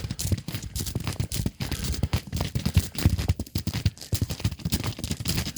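Irregular crunching and crackling of footsteps on ice-crusted ground, with dull low thumps among the crackles.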